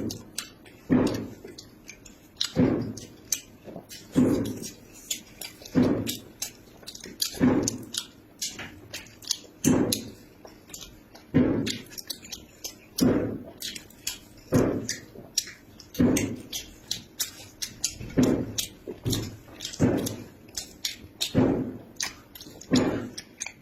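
Close-up chewing with mouth sounds: a heavier chew about every second and a half, with wet clicks and smacks in between.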